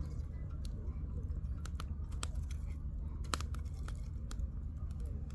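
Firewood in a campfire crackling, with irregular sharp pops and snaps, the loudest about three seconds in, over a steady low rumble.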